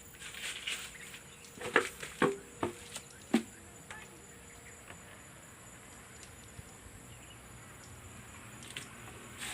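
Swiftlets calling: short, sharp chirps over a steady high-pitched buzz, with four loud ones close together between about one and a half and three and a half seconds in.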